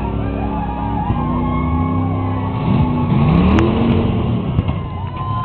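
Demolition derby cars' engines running, with revs rising and falling a few seconds in and a single sharp crack about three and a half seconds in.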